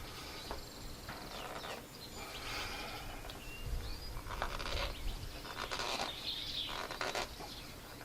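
Faint bird chirps over steady outdoor background noise.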